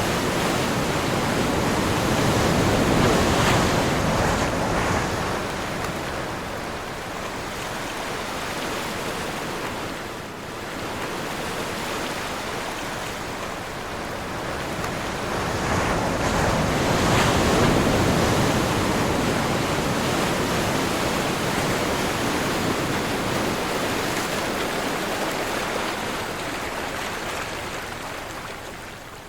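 Sea waves washing in on a windy day: a steady rush of surf that swells loudest about three seconds in and again around seventeen seconds, then ebbs away.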